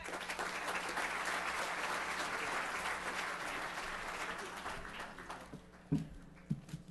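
Audience applauding, fading out after about five seconds. A few short knocks follow near the end.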